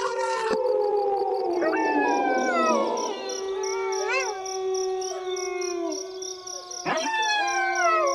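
A pack of wolves howling in chorus: several long howls overlap, gliding slowly down in pitch, with a short howl rising and falling about four seconds in and a new howl swooping up near the end.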